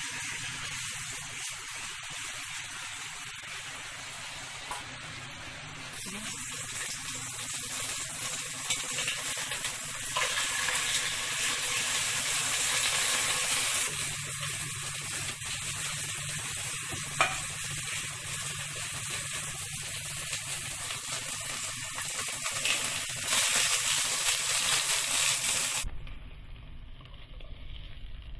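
Chicken breast sizzling as it fries in hot oil in a nonstick pot. The sizzle swells louder in stretches and dies down near the end.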